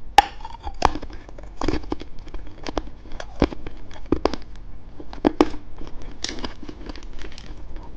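Plastic wrapper of an eyeball lollipop being crinkled and torn open by hand: an irregular run of sharp crackles and snaps.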